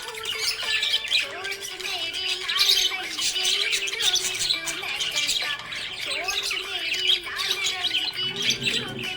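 Budgerigars chirping and warbling, a dense run of quick overlapping chirps and short rising and falling calls, over a steady low hum.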